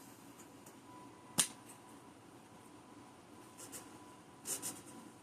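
Handling noises: one sharp click about a second in, then short bursts of rustling near the end as an alcohol wipe packet is handled and opened.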